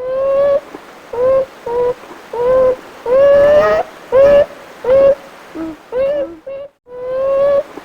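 An animal giving a quick series of about a dozen short, pitched cries, mostly steady in pitch with a slight rise in some, the longest near the middle.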